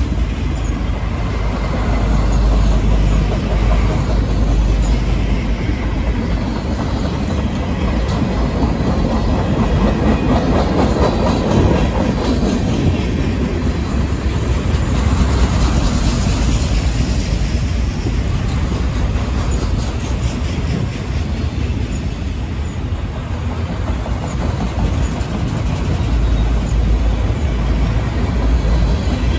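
Freight train cars (autoracks, a tank car and covered hoppers) rolling past on steel wheels, a steady rumble of wheels on rail.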